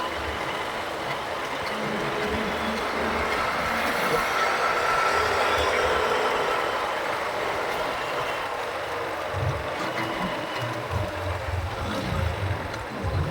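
Road traffic heard from a moving motorbike: a steady rush of traffic and road noise that swells a little around the middle, with low rumbles near the end.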